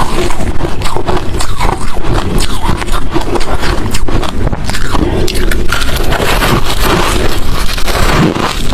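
A person chewing hard crushed ice, with close, dense crunching and crackling as the pieces break between the teeth.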